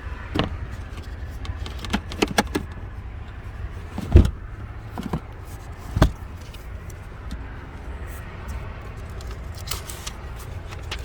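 Clicks and knocks of a car being handled, over a steady low rumble, with two heavy thumps about four and six seconds in.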